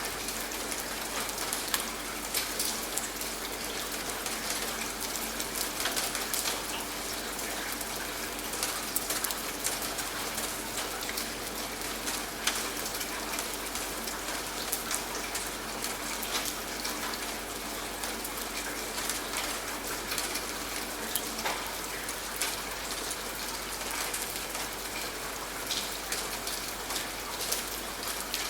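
Steady rain falling, an even hiss of rain with sharp individual drops ticking on a surface throughout.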